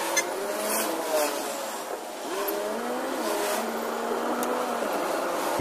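A car being driven, heard from inside the cabin: an engine whine that rises and falls in pitch.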